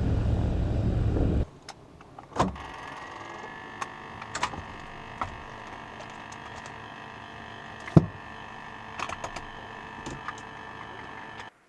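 A loud low rumble stops abruptly about a second and a half in. It gives way to a steady electrical hum in a jet's cockpit, with a faint rising whine and scattered switch clicks, the sharpest about eight seconds in, as the aircraft's systems are powered up before engine start.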